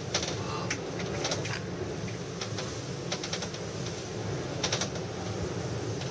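Gondola cabin rattling and clicking irregularly in strong wind, over a steady low rumble.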